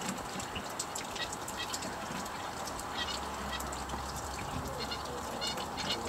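Wild birds calling around a backyard feeder: a string of short, high calls, several each second, some of them nasal-sounding, over a steady background hiss.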